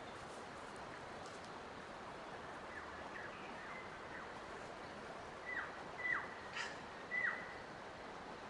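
A bird calling over a steady rushing hiss: faint falling notes, then four louder short calls in the second half, each a brief held note that drops sharply in pitch.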